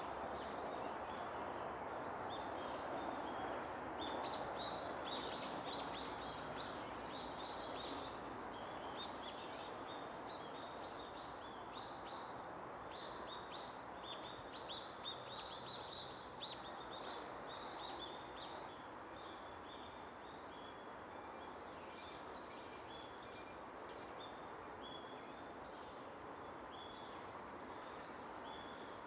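Many short, high bird chirps, dense for the first half and thinning out later, over a steady background rush of outdoor ambient noise.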